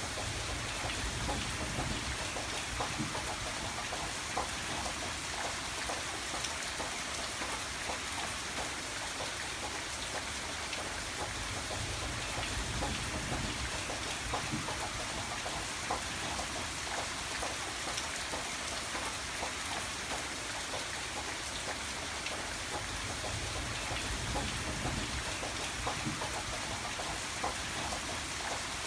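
Steady rain falling and pattering on a surface, with individual drops ticking and a low rumble that swells and fades.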